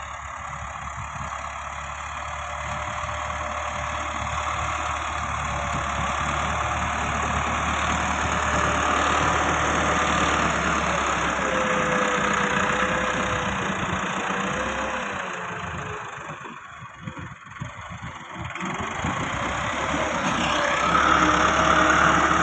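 Massey Ferguson 385 tractor's diesel engine running, growing louder over the first several seconds. It drops away briefly about two-thirds of the way in, then comes back louder near the end.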